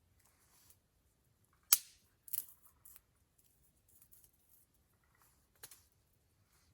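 Wood campfire crackling: a handful of sharp pops and snaps from the burning wood, the loudest about one and a half seconds in, a quick cluster just after it, and another snap near the end.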